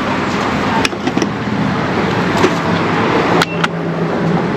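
Gas pump filling a car's fuel tank: a steady rush of fuel flow with a low hum and a few sharp clicks.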